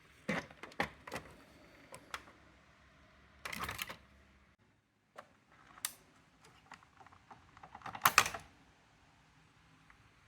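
Scattered plastic and metal clicks and clatter from a Brother AX-425 electronic typewriter, its parts handled and worked, with two longer rattling bursts about three and a half seconds in and near eight seconds, the second the loudest.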